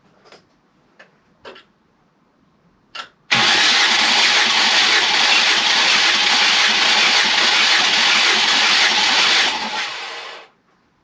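Ford Mondeo ST220's 3.0 V6 cranked over on the starter motor for about seven seconds, not firing, while a compression gauge on one cylinder takes its reading. It starts abruptly about three seconds in and winds down near the end, after a few faint clicks.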